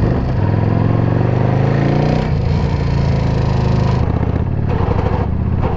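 Motorcycle engine running and revving, its pitch climbing over the first two seconds, holding, then dropping back near four seconds. The noise is taken for a lifter problem, probably not the transmission.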